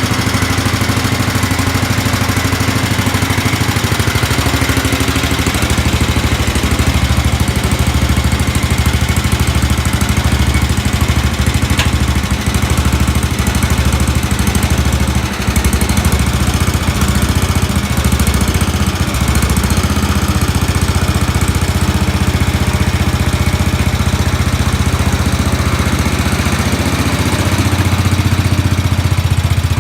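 Sears SS14 garden tractor's engine running steadily just after a hard cold start. There is a brief dip about fifteen seconds in, and the pitch shifts near the end.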